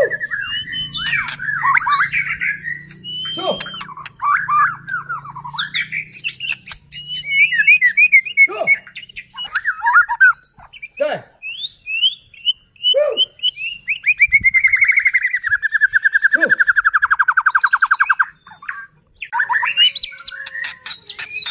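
White-rumped shama singing a varied run of whistled and chattering phrases, with a long, fast rattling trill that falls slightly in pitch from about 14 to 18 seconds in.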